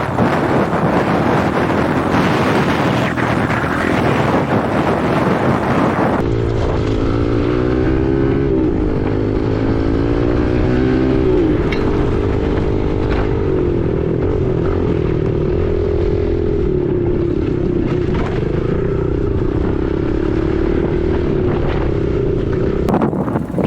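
Single-cylinder four-stroke dirt bike engine running under way, buried in heavy wind noise on the microphone for the first six seconds or so. Then the engine comes through clearly, its pitch rising and falling with the throttle before holding steady, until the wind noise returns near the end.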